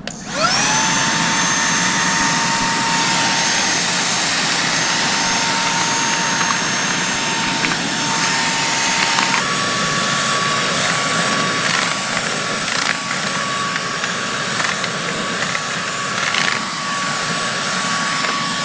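Tusa cordless handheld vacuum switched on: its motor spins up with a quick rising whine and runs steadily, then about halfway through it steps up to a higher-pitched whine as it is switched to its stronger second mode.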